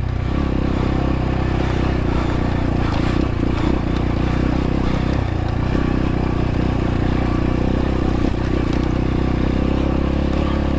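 X-Pro Templar X 250 dirt bike engine running steadily at low revs as it rides over rocks.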